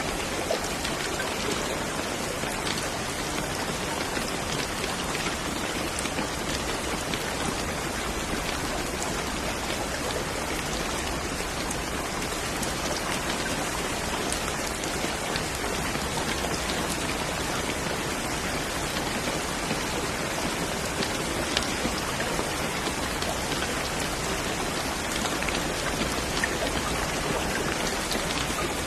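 Steady rainfall, a dense even hiss of drops with scattered individual drop ticks.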